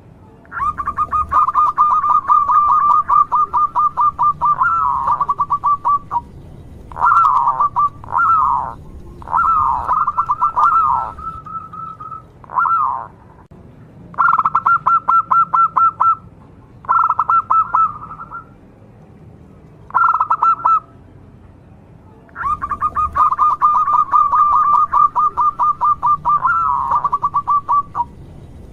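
Zebra dove (local perkutut) singing in bouts of its cooing song: fast runs of clipped, pulsed notes at one pitch, broken by short downward-sliding coos, with brief pauses between about six bouts.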